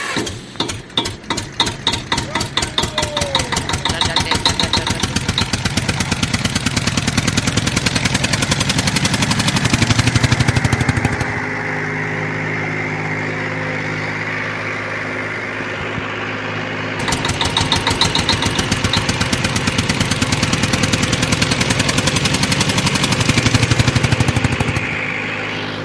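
Tractor engine speeding up from a slow chugging beat into hard, fast pulsing as it labours under heavy load, settling to a steadier note for several seconds around the middle before working hard again near the end.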